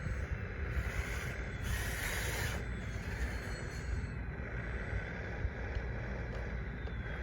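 Radio-controlled bulldozer running, its small electric drive motors and gearboxes whining steadily over a low rumble, with a brief hiss about two seconds in.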